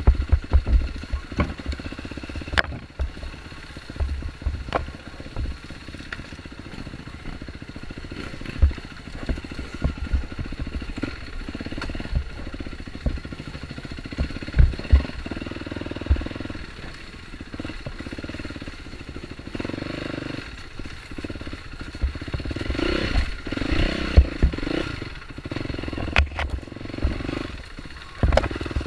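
Dirt bike engine running on an off-road trail, the throttle rising and easing, with frequent knocks and rattles from riding over rough ground.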